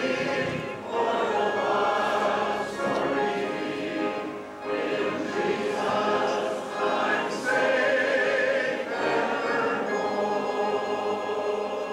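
A choir singing, many voices holding sustained chords in phrases that swell and briefly dip.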